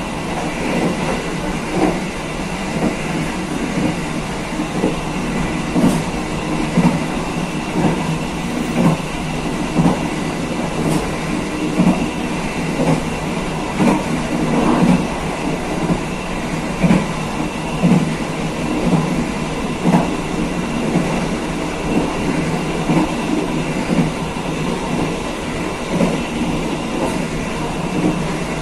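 Passenger train running along the track: a steady rumble and hiss, with the wheels knocking over rail joints roughly once a second.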